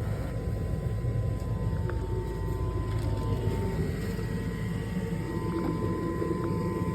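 Furnace motor running: a steady hum and rush of air with a constant whine on top.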